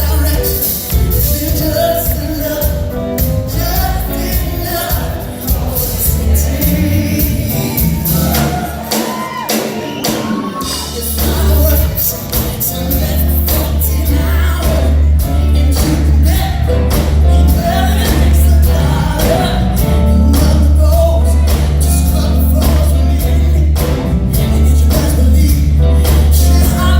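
Live rock band playing with sung vocals over a heavy bass line; the bass drops out for about two seconds about a third of the way in, then comes back.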